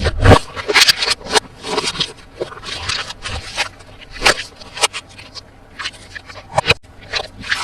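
Close-up handling of toy packaging and plastic toys: irregular crinkling, scraping and sharp clicks, in quick succession.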